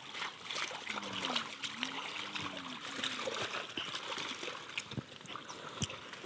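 Shallow river water splashing and trickling, with many small irregular splashes and drips.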